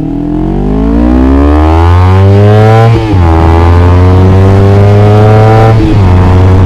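Motorcycle with a DX Generation Sphere Oval aftermarket slip-on exhaust, accelerating while ridden. The engine note climbs, drops at a gear change about three seconds in, climbs again and shifts once more near the end. The exhaust sound is bassy and soft, not harsh.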